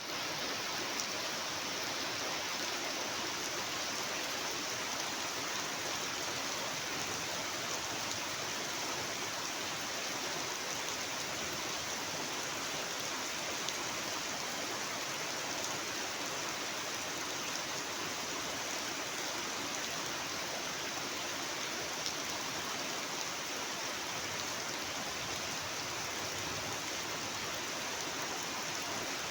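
Heavy rain falling in a steady downpour, an even hiss with no let-up.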